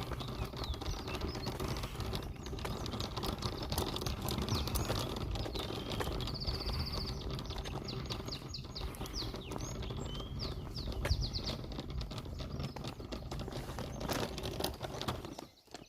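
Small songbirds chirping and singing, with a quick high trill about six seconds in and more short chirps after it, over a steady low rumble and scattered small clicks.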